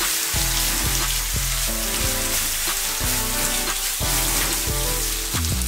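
Stir-fry vegetables and greens sizzling in a hot wok as they are tossed, with tuna steaks frying in a pan alongside. Background music plays over the sizzle.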